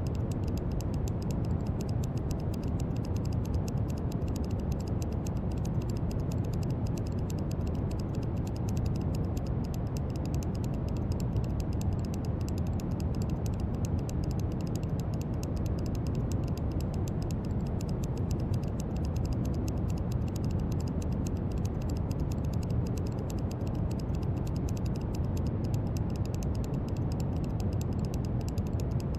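Steady brown noise: an even, deep rushing hiss with most of its weight in the low end, overlaid by a faint fine crackle in the highs.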